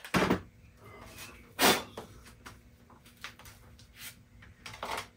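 Handling noise from hands working on car parts: three short rasping bursts with faint clicks between them, the loudest about a second and a half in.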